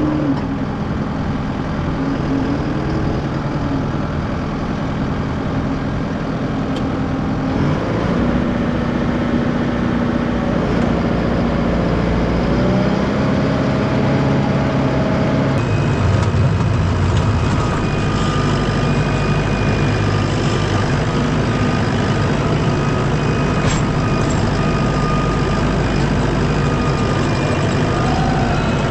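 Heavy farm-vehicle engine running steadily under load, its pitch shifting a few times.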